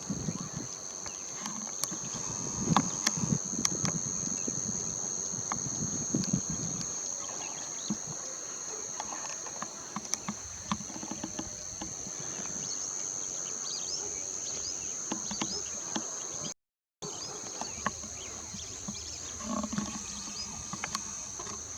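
Steady high-pitched drone of crickets, with scattered short bird chirps and calls over it. The sound drops out completely for a moment about 17 seconds in.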